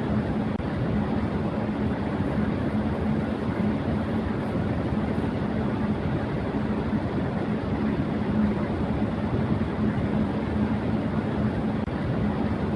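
Electric fan running at high speed: a steady rush of air with a low steady hum.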